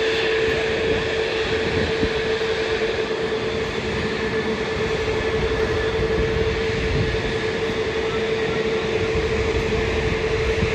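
Jet airliner's engines running, a loud steady noise with one constant tone in it that holds without change.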